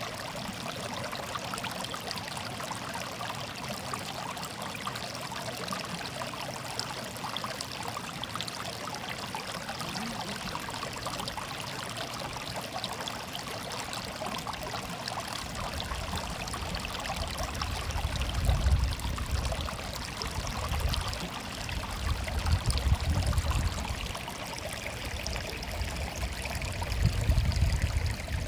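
A stream murmuring and trickling in a steady rush of water. From about halfway through, a low rumble comes and goes several times and is the loudest thing heard.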